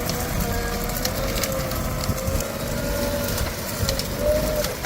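JCB 3DX backhoe loader working: its diesel engine runs under load with a whine that wavers slowly in pitch, over scattered crunching and cracking.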